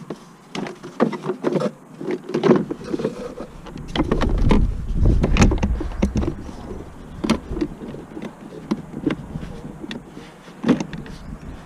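Mechanic's tools knocking and clicking on car parts during clutch replacement work, with a louder, steadier stretch about four seconds in that lasts a couple of seconds.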